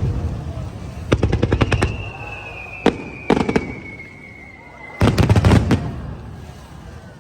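Aerial fireworks shells bursting in volleys: a rapid string of bangs about a second in, a few more around three seconds, and a dense volley about five seconds in, each echoing away.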